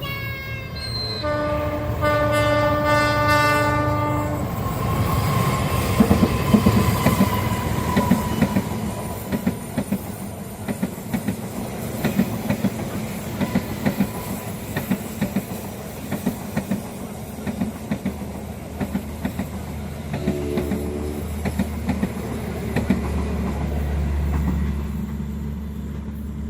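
Train horn sounding, a short blast and then a longer one, followed by a train passing close with regular clicks of its wheels over the rail joints and a low rumble.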